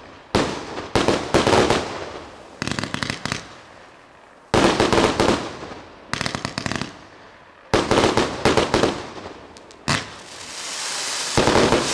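A 'Solar Wind' (Р8322) consumer firework battery firing. Its shots burst in clusters of rapid crackling pops, each cluster lasting about a second and coming every one to two seconds. Near the end a rising crackling hiss runs into a last flurry of pops.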